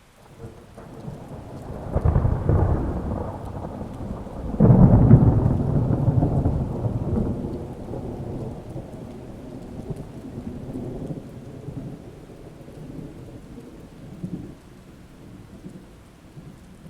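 Thunder rolling over steady rain: a peal builds about two seconds in, a louder crash hits about five seconds in, then the rumble dies slowly away.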